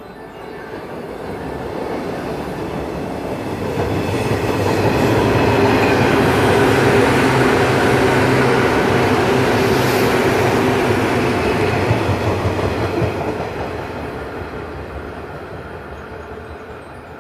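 Electric commuter train running past a station platform: wheel-on-rail clatter and running noise swell as it comes in, are loudest midway, then fade slowly as it moves off.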